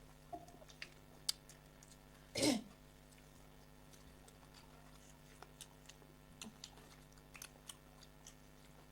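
Chewing and small clicks of a person eating soaked rice and fried fish, with one louder brief sound about two and a half seconds in, over a faint steady hum.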